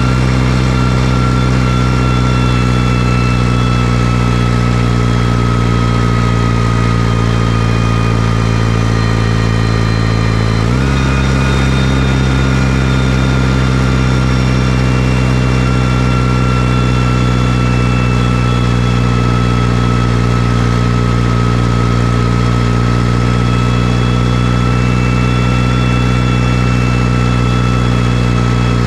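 New Holland T6040 tractor's diesel engine running steadily at low revs. About ten seconds in the revs step up a little and then hold steady again.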